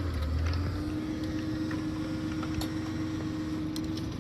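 Tractor engine running steadily, with a constant low hum and a steady held tone over it, and a few faint ticks.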